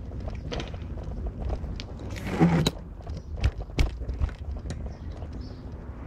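Car driving, heard as a steady low road rumble with scattered knocks and rattles, and a short louder noisy burst a little over two seconds in.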